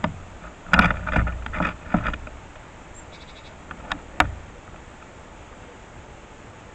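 Small birds, likely house sparrows, knocking and scrabbling on a bird feeder close to the microphone: a cluster of knocks and scrapes for about a second and a half, then two sharp clicks about four seconds in.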